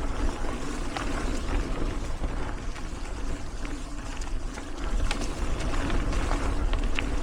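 Mountain bike riding on dry, fast dirt singletrack: wind buffeting the microphone and tyres rolling over the trail, with scattered light clicks throughout.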